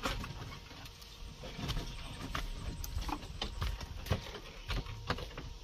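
Scattered light knocks and taps at irregular intervals.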